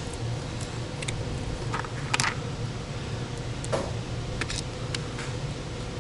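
Scattered light clicks and taps, about seven in all, from screws and a hand tool being handled on an engine's crankcase vent valve, over a steady low hum.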